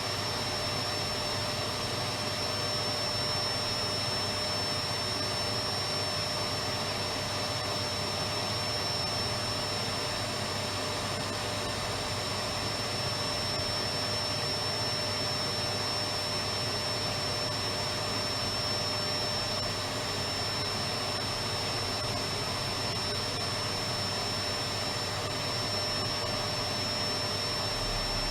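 Electric vacuum cleaner running steadily, a constant motor whine and rush of air with a high steady tone over it.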